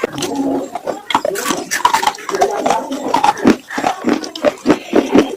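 Slate pencils being bitten and chewed, a dry earthy crunching close to the microphone, settling into a quick run of crunches, several a second, in the second half.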